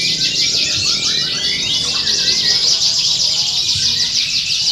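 Many canaries singing at once, a dense unbroken chorus of fast trills, rolls and chirps, as heard at a songbird contest.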